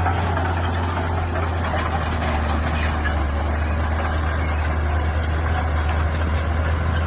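Heavy diesel engine of earthmoving machinery running steadily under load, a deep low hum with a rough noisy wash over it.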